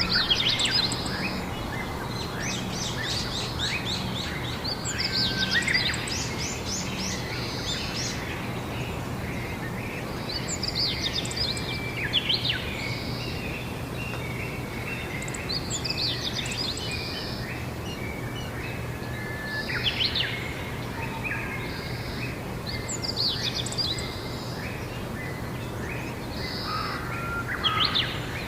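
Songbirds singing: short, rapid twittering phrases that repeat every few seconds, over a steady low background hum.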